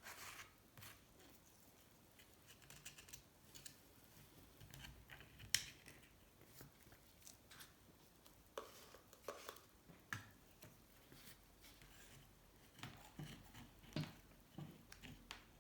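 Faint, scattered scraping, clicking and tapping of hand tools and small metal parts on aluminium motorcycle engine cases being dismantled, with one sharper tick about five seconds in.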